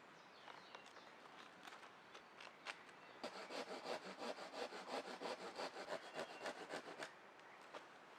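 Hand saw cutting wood: a quick, even run of strokes, about five a second, starting about three seconds in and stopping about a second before the end, after a few scattered light knocks.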